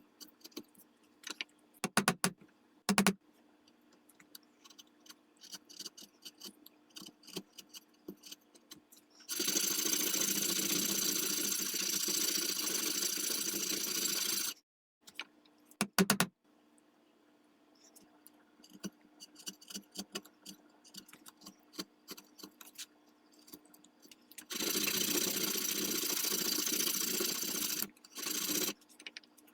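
Workbench hand work on a walnut rifle stock and its buttplate: scattered light taps, clicks and scrapes. Two stretches of a steady, noisy machine sound, one about five seconds long near the middle and one about three seconds long near the end, stand out as the loudest sounds.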